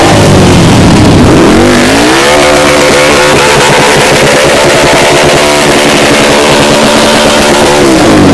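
Muscle car engine revved: its pitch climbs about two seconds in, is held steady at high revs, then falls back near the end.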